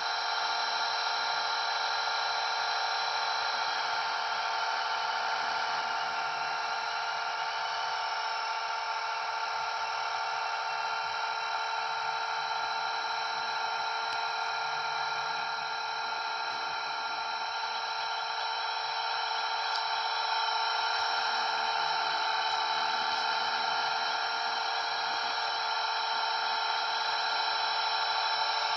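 Blade 230S V2 electric RC helicopter in flight: a steady, high-pitched motor and rotor whine with only small shifts in pitch and level.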